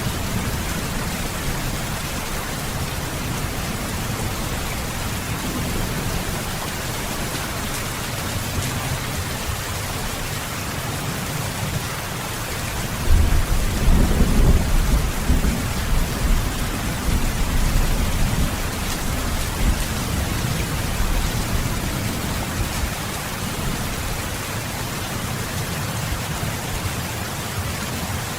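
Steady rain falling, with a roll of low thunder that rumbles up about halfway through and fades away over several seconds.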